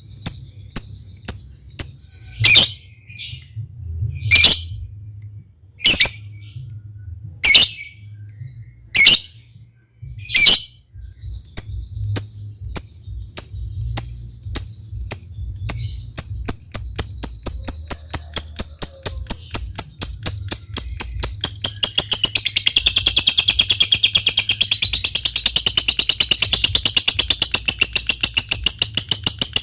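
Lovebird ticking in rapid, evenly spaced clicks, broken by loud sharp calls about every second and a half at first. The ticks then run steadily at about three a second, and from about two-thirds of the way in they break into a long, continuous shrill chatter: the 'ngekek panjang' of a lovebird in full song.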